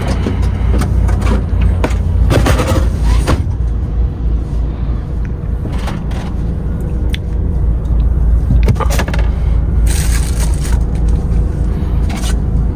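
Steady low vehicle rumble, with scattered knocks and short bursts of noise over it.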